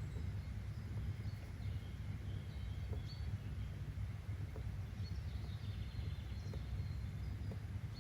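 Steady low rumble of ambient nature background noise, with faint, scattered high bird chirps and a few faint clicks.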